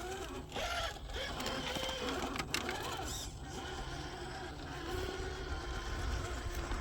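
1/10-scale RC rock crawler truck climbing over rocks: its small electric motor and gear drivetrain whine and vary in pitch, with a few sharp clicks about two and a half seconds in.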